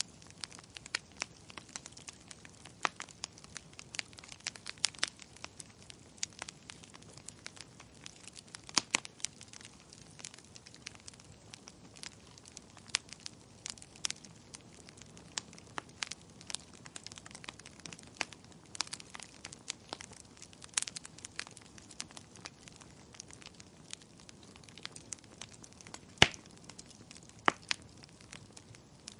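Wood fire burning in a fireplace: irregular crackles and sharp pops over a faint low hiss, with two louder pops near the end.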